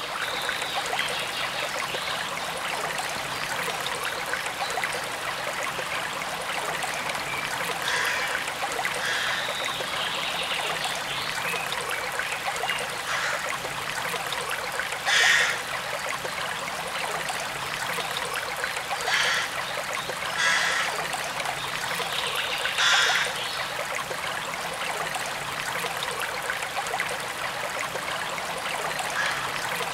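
Forest stream running and trickling steadily, with a few brief louder splashes scattered through.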